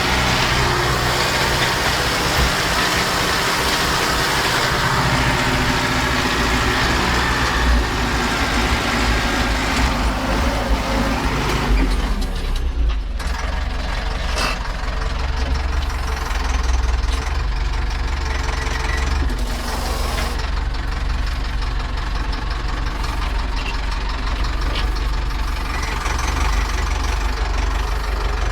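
Zetor 9540 tractor's diesel engine running steadily, as it would when pulling a stubble cultivator. About twelve seconds in, the sound turns duller as the higher sounds drop away, leaving a strong low rumble.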